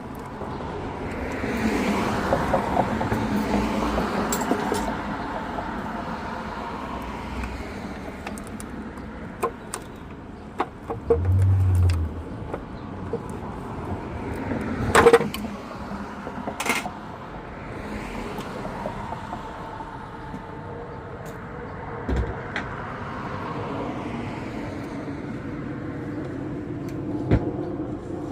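A vehicle passing by, its noise swelling and fading over a few seconds, with a fainter one passing near the end. In between come scattered sharp clicks and knocks, one of them loud, and a brief low hum.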